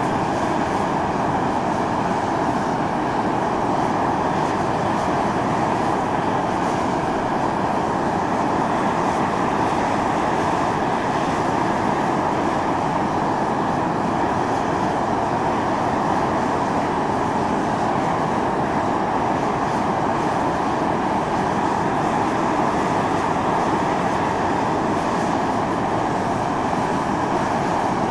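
Volcanic fumarole vents of Mt. Iō steadily jetting steam and gas, a continuous hissing rush with no breaks.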